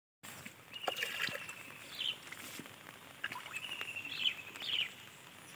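Birds calling over a faint steady outdoor background: short high, thin whistled notes and quick chirps, repeating every second or so.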